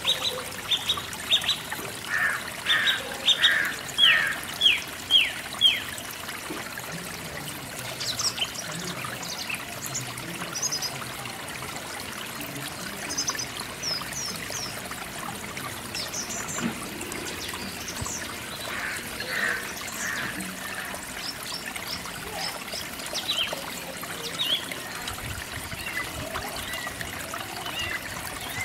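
Birds chirping: a quick run of about eight loud, short, falling chirps in the first six seconds, then scattered higher, fainter chirps, over a steady hiss.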